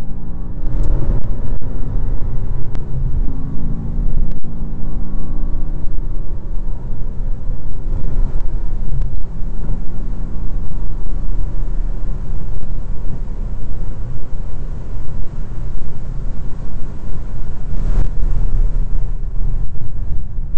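Racing car's engine pulling hard along a straight, its pitch climbing and breaking off several times in the first few seconds as it shifts up. Heavy wind and road rumble inside the cabin run underneath.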